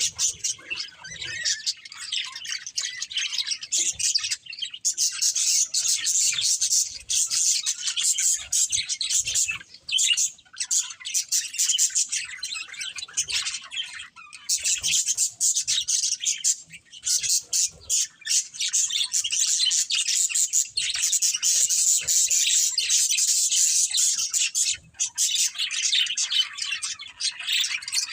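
Budgerigars (budgies) chirping and chattering, a dense run of fast, high twittering broken by a few brief pauses.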